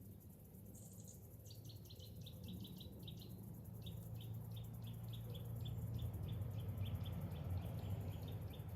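Cicada calling: a run of short, rhythmic high chirps, about five a second, drifting slightly lower in pitch, over a low rumble that swells toward the end.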